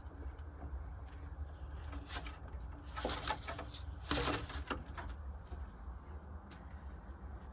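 Pigeons' wings flapping in two short flurries, about three and four seconds in, over a steady low hum.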